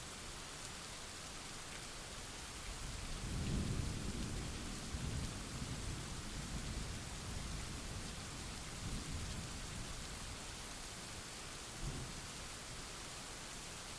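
Steady rain hiss with a roll of thunder: a low rumble builds about three seconds in, is loudest soon after, and dies away over the next several seconds, followed by one short low rumble near the end.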